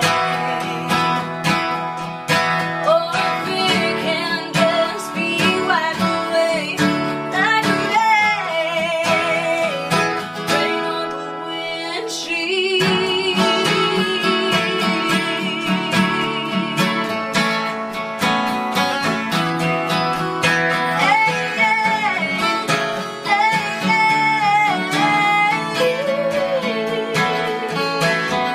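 Acoustic guitar strumming chords under a second guitar playing a lead solo with bent, wavering notes: an instrumental break in a country song.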